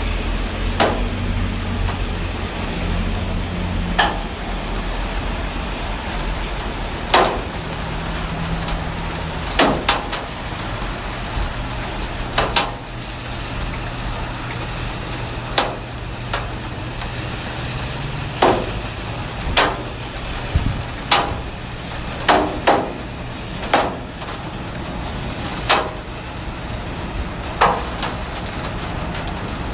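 Heavy rain falling steadily, with big drops knocking sharply and irregularly on a hard surface, several every few seconds. A low steady hum runs underneath.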